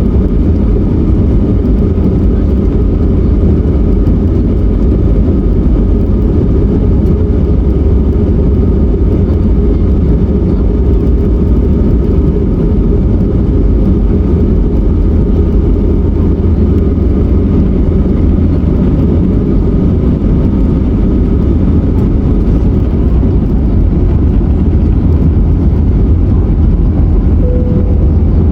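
Steady engine drone and airflow noise inside the cabin of an Airbus A321neo with Pratt & Whitney PW1133G geared turbofans, deep and even, with a faint steady whine over it.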